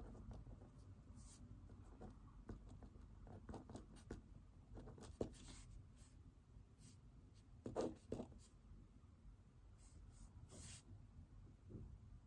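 Pen writing on paper, faint scratching strokes and small ticks of the pen, with one louder scrape about two-thirds of the way through.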